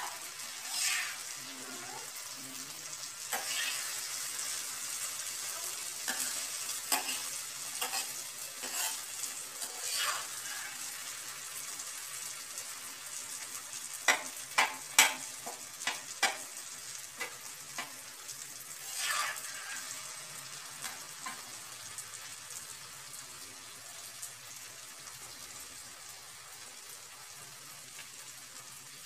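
Okra, tomatoes and green chillies sizzling steadily as they fry in a wide pan, with a spatula scraping and knocking against the pan as the vegetables are stirred. The loudest strokes come about halfway through, and the stirring thins out toward the end while the sizzle goes on.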